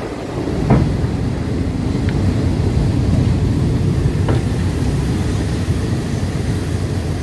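Passenger train rolling along the track, heard from inside a carriage with open windows: a steady low rumble of wheels on rails, with two sharp knocks about a second in and about four seconds in.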